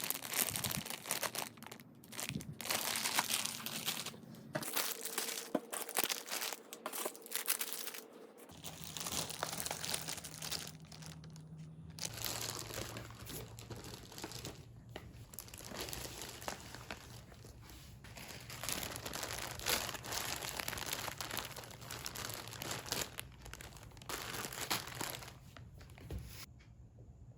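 Plastic snack packaging crinkling and rustling as it is handled, in a run of short irregular crackles.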